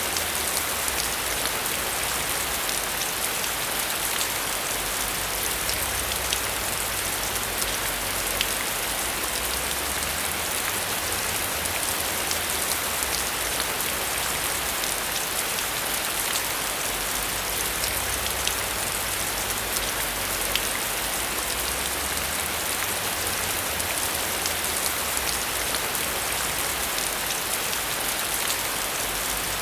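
Steady heavy rain, with a constant hiss and many sharp ticks of individual drops.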